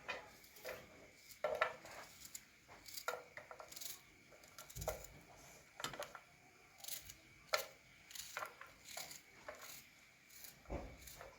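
Irregular light clicks, knocks and rubbing of small objects being handled, with a couple of dull thuds about five seconds in and near the end.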